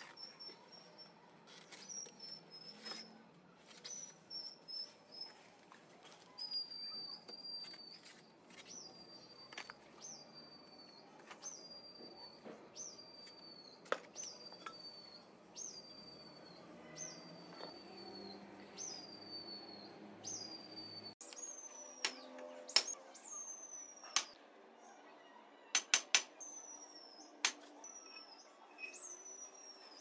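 A small bird chirping over and over, a short high note that falls, about once a second. Sharp taps of a trowel knocking bricks down into their mortar bed come in between, loudest in the second half.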